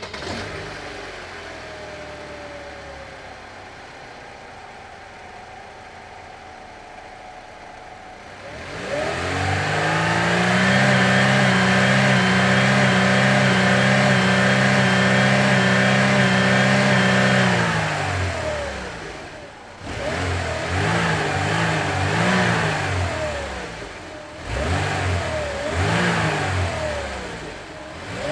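Car engine idling quietly, then revving up about eight seconds in and holding a loud steady high rev for several seconds before dropping away. It then revs up and down again twice, with brief dips in between.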